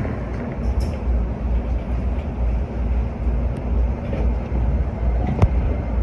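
Keikyu electric train running through the station with a steady low rumble, a few light clicks and one sharp click near the end.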